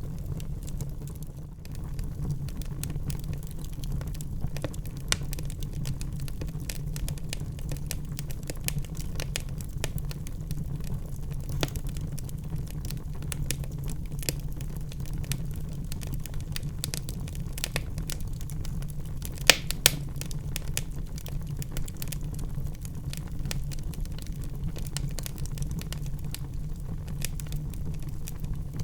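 Wood fire burning in a fireplace, crackling constantly with small snaps over a steady low rumble, and two louder pops about two-thirds of the way through.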